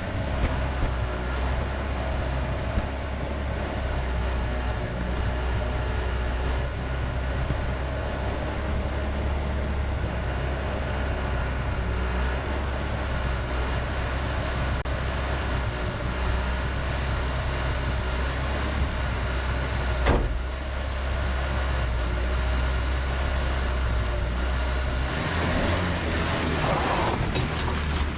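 Vintage Datsun 521 pickup truck running, a steady engine hum with one sharp knock about twenty seconds in and a shift in the engine note near the end.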